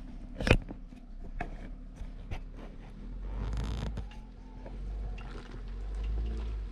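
A string of knocks, clicks and scraping, with one sharp loud knock about half a second in, over a low steady rumble that grows stronger about halfway through.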